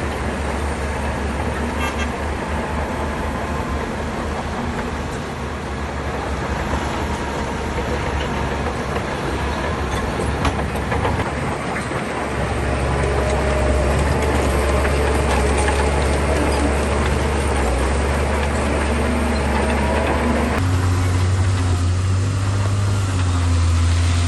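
Shantui bulldozer's diesel engine running steadily under load, growing louder about halfway through and rising in pitch near the end.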